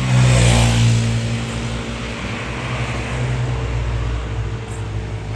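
A motor vehicle's engine running close by, steady and low. A louder rush of passing traffic swells and fades over the first two seconds.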